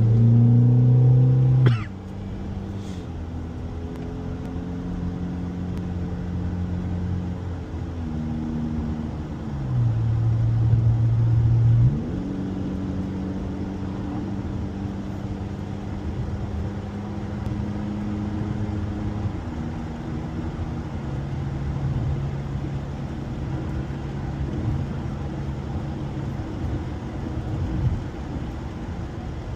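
Honda car driving, heard from inside: the engine's note pulls louder for the first couple of seconds and again about ten seconds in, each time cutting off sharply as the driver eases off, with the pitch stepping up and down several times between steady cruising over a road rumble. A short click about two seconds in.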